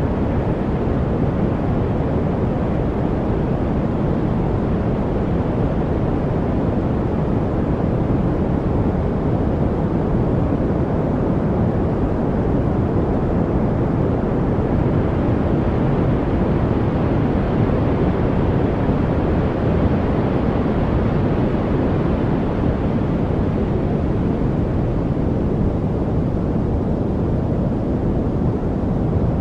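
Steady noise from a study background-noise track, deep and rumbling rather than hissy, with most of its weight in the low end. It turns slightly brighter for a few seconds around the middle, with no birds, drips or other separate sounds standing out.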